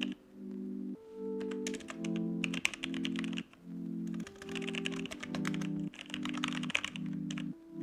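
Computer keyboard typing in several quick bursts of clicks, over background music of sustained chords that change about once a second.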